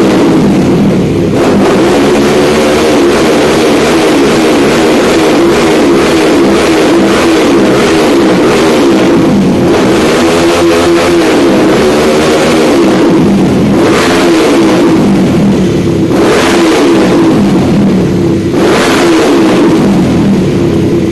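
Air-cooled single-cylinder motorcycle engine running and being revved by hand on the throttle. The revs rise and fall over and over, with several sharper blips that come out louder.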